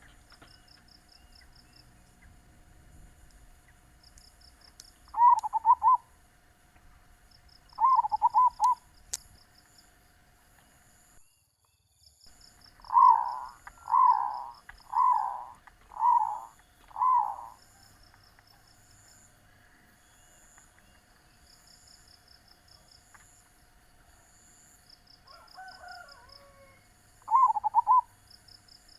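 Zebra dove (perkutut) cooing in short, rolling trilled coos: single coos about five and eight seconds in, a run of five about a second apart in the middle, and another near the end. Behind the coos are faint high chirping trills repeated every second or two and a faint steady hum.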